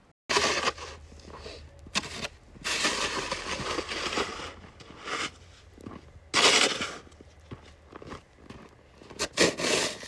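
Irregular scraping and crunching in snow, in bursts of different lengths, the longest about a second and a half, over a faint low hum.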